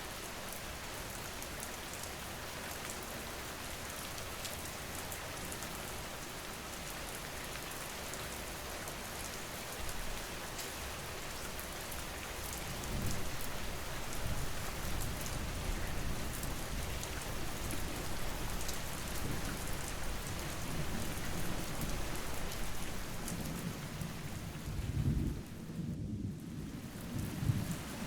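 Steady rain falling, with thunder rumbling in from about halfway through and swelling twice near the end.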